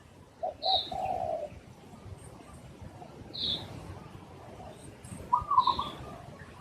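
Spotted doves cooing: one phrase of several short notes about half a second in and another about five seconds in. A smaller bird gives a short high chirp every two or three seconds.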